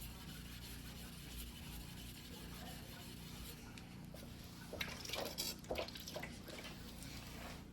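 Knife being hand-sharpened on a wet whetstone: a faint, steady scraping of the blade, then a few short, watery splashing sounds about five to six seconds in.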